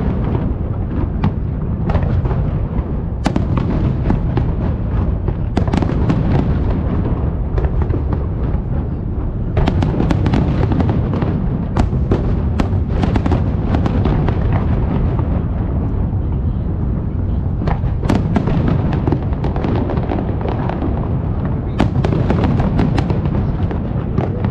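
Fireworks display: aerial shells bursting in a continuous barrage, with sharp cracks over a steady low rumble of booms. The cracks come thicker about ten seconds in and again near the end.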